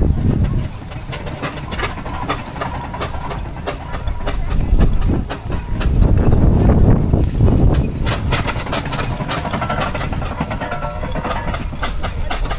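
Steam road engine running past, a low rumble that grows louder for a few seconds around the middle.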